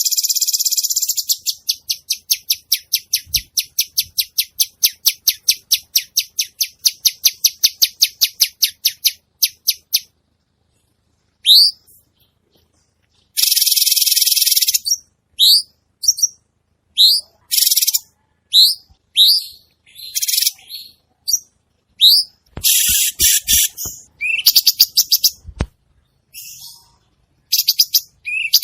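Cucak cungkok bird singing in full voice. It opens with a harsh buzzing chatter that breaks into a fast, even run of short notes, about four to five a second, for some ten seconds. After a short pause come short rising whistles alternating with loud harsh rasping bursts, with a few soft low thumps among them.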